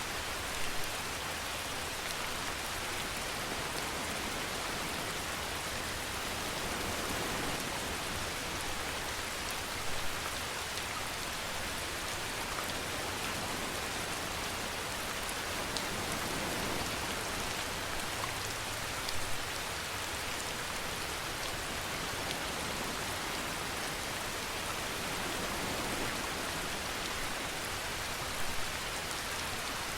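Steady rain falling and pattering on a surface, an even hiss, with a brief slightly louder spatter about every nine seconds.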